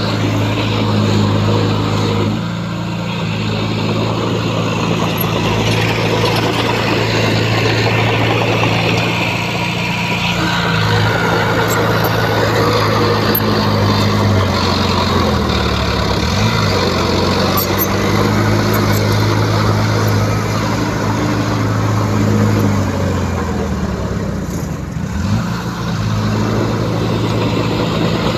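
Heavy diesel engine running steadily under load, with a rough mechanical din over it. Its pitch drops and rises again about halfway through and once more near the end.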